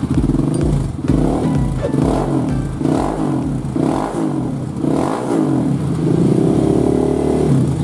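Motorcycle engine revved again and again, its pitch rising and falling about once a second, then held at a steady higher speed for a moment near the end.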